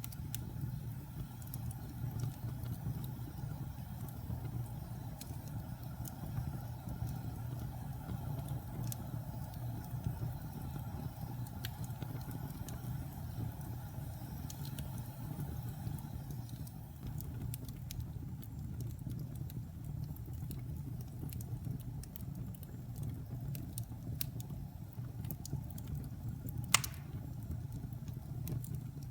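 Wood fire burning in a fireplace: a steady low rumble with scattered crackles, and one sharp, loud pop near the end.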